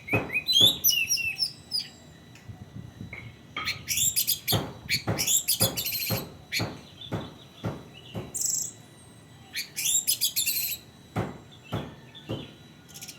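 Orange-headed thrush singing in bouts of varied, quickly changing phrases and rapid chattering trills, mixed with many sharp knocks.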